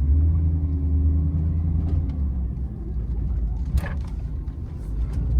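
Work truck's engine running under light throttle as it creeps forward, the pitch lifting at the start and easing back about two seconds in, then lifting again at the end. A single sharp click near four seconds in.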